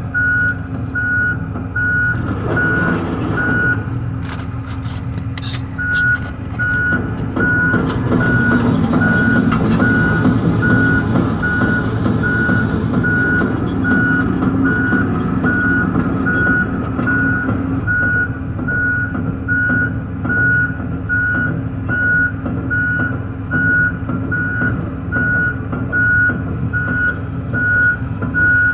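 John Deere 245P excavator's diesel engine running while its travel alarm beeps about once a second as the machine tracks along. The beeping stops for about two seconds near the start, and the engine works harder for several seconds in the middle.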